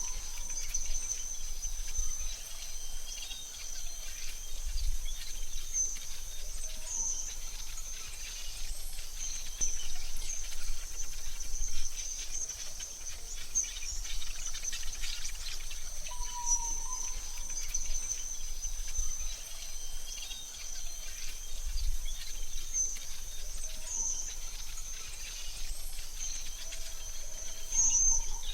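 Forest ambience: a steady high-pitched insect trill, like crickets, with a few short bird chirps over it and soft low rumbles now and then.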